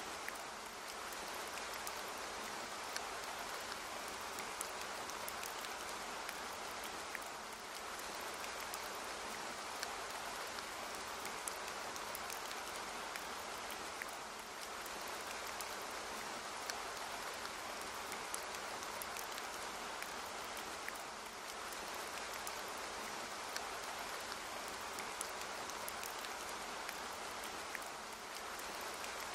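Steady light rain: an even hiss with many scattered individual drop ticks, easing slightly about every seven seconds.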